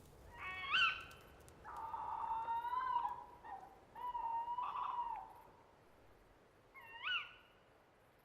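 An owl calling: a short, sharp rising-and-falling call, then several longer held hoots, and another short sharp call near the end.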